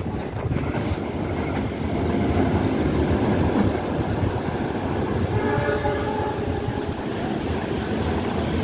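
Electric commuter train approaching on the line with a steady low rumble, and a horn sounding for about two seconds past the middle.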